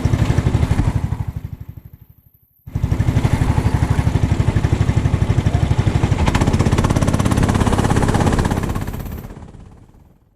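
390cc kart engine running with an even, rapid firing pulse. The sound cuts in and out abruptly: it fades away about two seconds in, drops to dead silence, snaps back on, and fades out again near the end, an audio dropout fault in the recording.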